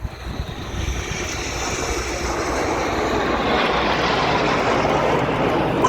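Formation of BAE Hawk T1 jets flying past, a jet roar that builds over the first few seconds and then holds, with a high whine sliding down in pitch.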